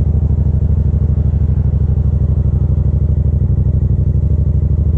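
Yamaha FZ-07's parallel-twin engine running steadily at a constant pitch, with no revving.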